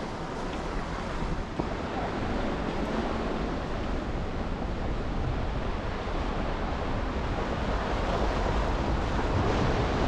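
Car driving through snow-covered city streets: a steady rush of tyre and traffic noise that grows slowly louder.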